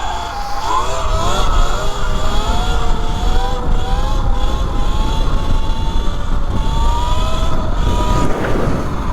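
Electric motor whine of an E Ride Pro SS 3.0 electric dirt bike under way, its pitch rising and falling with the throttle and dropping near the end, over a heavy rumble of wind on the microphone.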